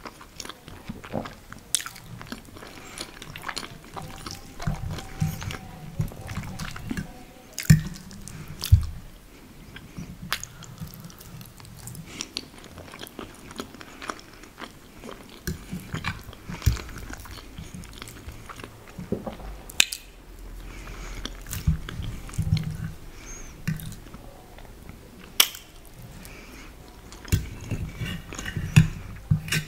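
Close-miked chewing and wet mouth sounds of someone eating soft lasagna, in clusters, with scattered sharp clicks from the metal fork against the plate as more is scooped up.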